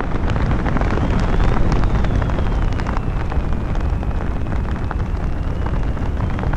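Wind buffeting the microphone during a parachute descent: a steady loud rumble with constant crackling from the rushing air.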